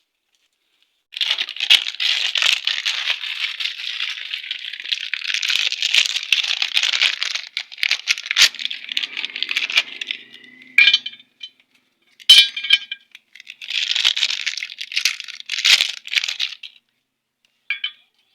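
Metal parts rattling and scraping, with sharp clicks and a couple of ringing metallic clinks about two-thirds of the way through, as a ball bearing is handled and worked into a motorcycle engine's side cover.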